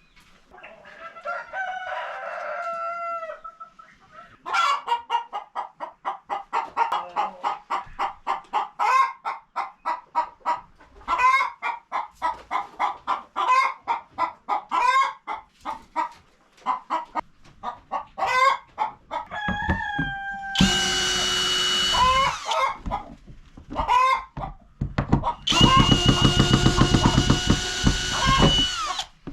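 Chickens clucking in a fast run of repeated calls, then a rooster crowing loudly twice, the second crow longer.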